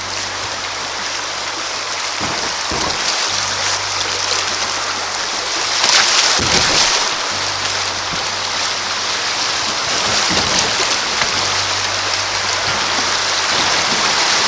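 Creek water rushing over rocks in a riffle, a steady hiss that swells louder about six seconds in.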